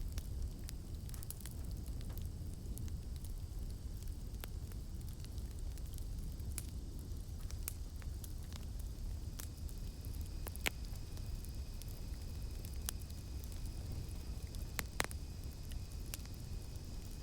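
Campfire burning, a steady low rumble with scattered sharp crackles and pops, two louder pops about ten and fifteen seconds in. A faint, thin, high insect drone sits in the background.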